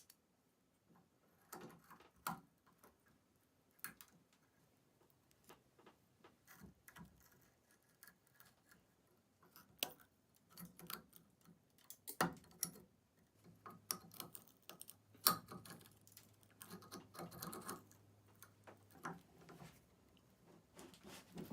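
Faint, irregular clicks, taps and short scrapes of metal on metal as broken nails are worked out of the eye of a rusty axe head.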